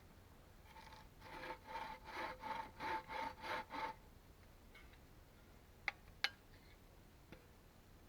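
Hand saw cutting wood in a run of about ten quick back-and-forth strokes, then stopping. Two sharp clicks follow a couple of seconds later.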